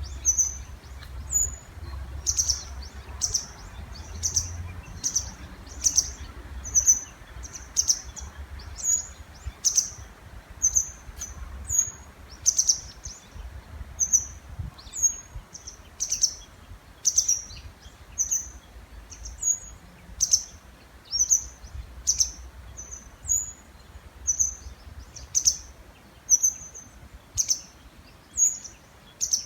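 Small birds calling over and over in the breeding season: short, very high-pitched calls repeating about once a second, over a faint low rumble.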